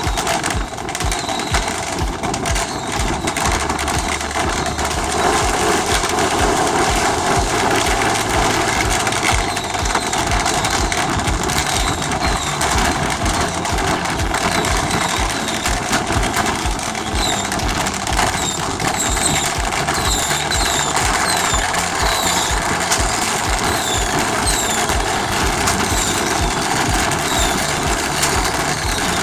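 A boat's engine running steadily with a rapid, even pulsing. From about halfway through, short high falling chirps repeat roughly once a second over it.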